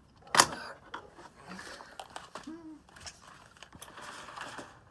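Handling noise from a plastic upright vacuum cleaner: one sharp click about half a second in, then scattered light clicks and rustling.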